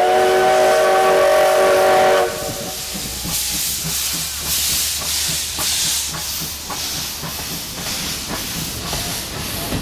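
CK124 steam locomotive's whistle sounding one chord of several tones for about two seconds, then the locomotive running on with steam hissing and a quick rhythmic clatter.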